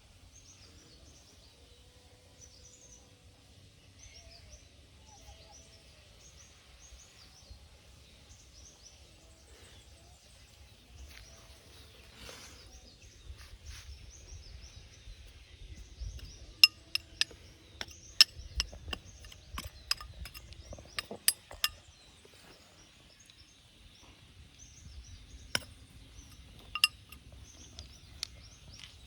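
A run of sharp clinks lasting about five seconds, then two more a few seconds later, over birds chirping in the background.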